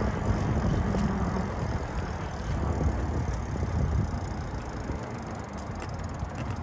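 Electric bike rolling along a trail: a steady low rumble of tyres and ride noise, with a few light rattling clicks near the end.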